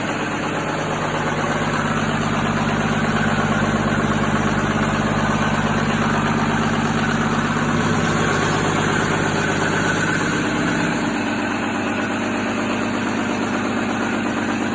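Komatsu SA6D170E-2 six-cylinder turbocharged diesel engine running steadily after a rebuild, with a slight shift in its note about ten seconds in.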